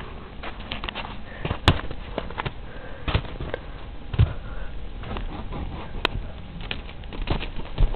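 Irregular crunching and knocking over a noisy background, with a few sharp knocks louder than the rest and no steady rhythm.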